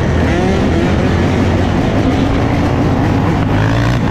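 Several dirt bike and ATV engines running together, with pitch rising and falling as riders rev them.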